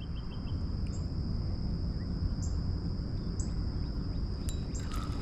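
Outdoor ambience: a steady high insect drone, like crickets, over a low steady rumble, with a few short high chirps and a pitched call coming in near the end.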